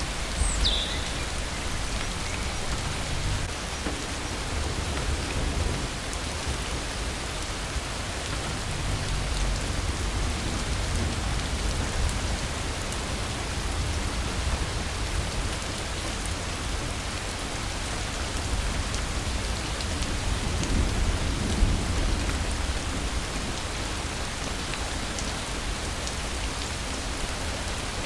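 Steady rain falling, with low thunder rumbling underneath that swells about ten seconds in and again near the twenty-second mark. A brief high falling chirp sounds about a second in.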